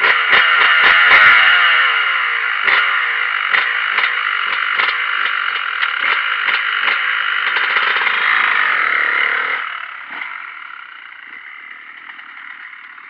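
Yamaha motocross bike's engine revving hard under load, with the pitch rising and falling through the gears and repeated sharp knocks. About ten seconds in it drops back sharply to a much lower level.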